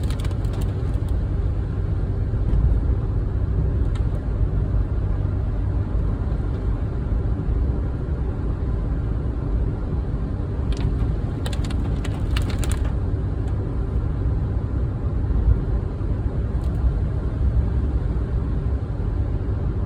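Steady low rumble of a car driving, with a few short clicks, a cluster of them about 11 to 13 seconds in.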